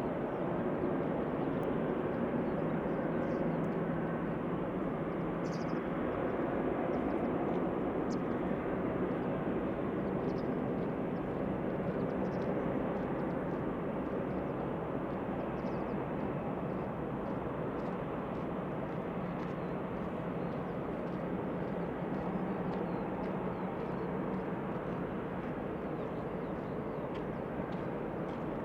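Jet aircraft engines giving a steady rush of noise that eases slightly over the second half.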